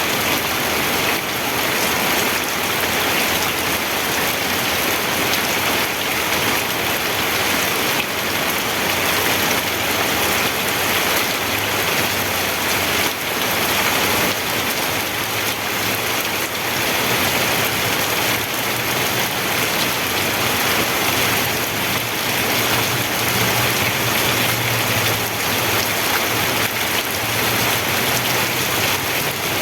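Steady rain falling, a dense even hiss of many drops. From about halfway a faint low hum joins in and grows slightly louder near the end.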